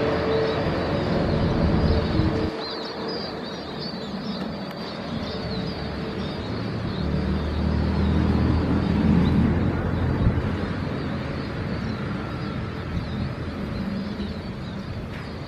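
Jet aircraft engine rumble that eases off after a couple of seconds and swells again mid-way, with birds chirping high above it.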